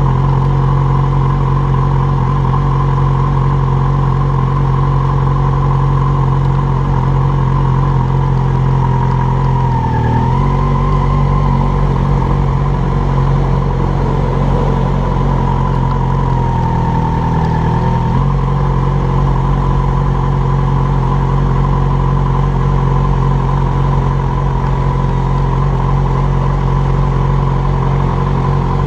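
Yamaha motorcycle engine running steadily at low revs, idling and rolling slowly in stop-and-go traffic. The note shifts briefly twice, about a third of the way in and again a little past the middle.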